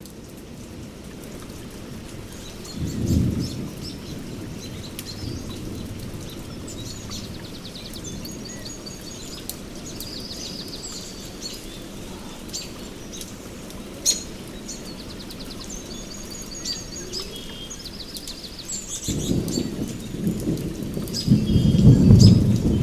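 Steady rain with thunder rumbling, once about three seconds in and again near the end, louder and longer. Birds call and trill high above the rain.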